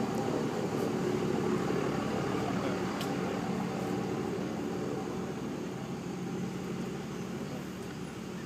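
Several motorcycle engines running together. The sound swells over the first second or two, then slowly fades.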